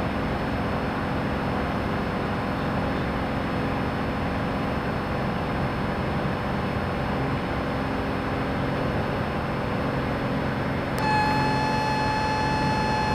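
Cessna 210 Centurion's six-cylinder piston engine and propeller running steadily at full takeoff power in the climb just after liftoff, heard from inside the cabin. Near the end a steady high tone with overtones comes in and the sound gets a little louder.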